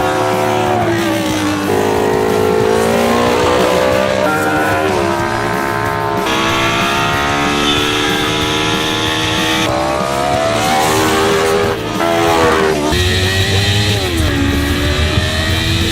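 Honda 600cc sports-bike engine in a dodgem car, revving hard and changing up through the gears: the pitch climbs, drops back and climbs again several times. Music plays underneath.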